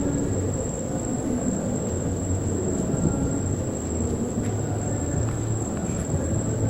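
Insects droning on one steady high note over a low, continuous rumble of distant thunder.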